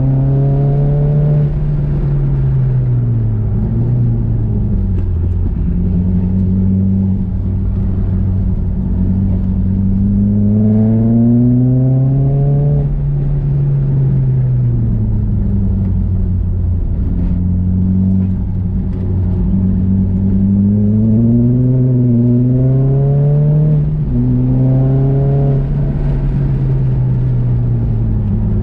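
Nissan Juke's engine under hard driving, climbing in pitch as it accelerates and falling away as it eases off, three times over, with smooth rises and no sharp drops between them.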